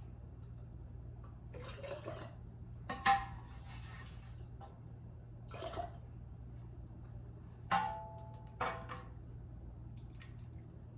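Chicken broth being ladled and poured into a glass canning jar, with a few sharp clinks of the ladle, the loudest about three seconds in and again near eight seconds. A steady low hum runs underneath.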